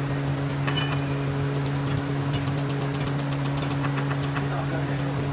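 Steady motor hum of workshop machinery, with a run of light, sharp metal clinks and taps through the middle.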